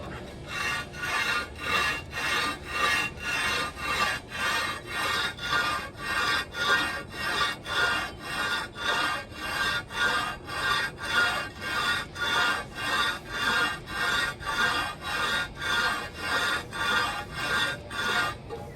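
Ford Model A cast-iron intake-and-exhaust manifold being scraped back and forth over a flat abrasive surface in steady, even strokes, a little under two a second. The manifold face is being ground flat because it is warped and leaking.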